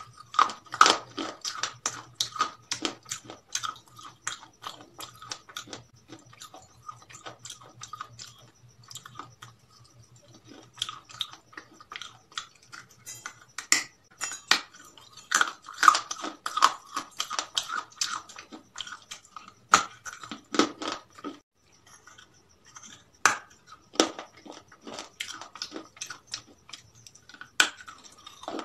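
A person chewing and biting crispy fried chicken close to the microphone: sharp, wet crunching and crackling in bursts, with a few short lulls between mouthfuls.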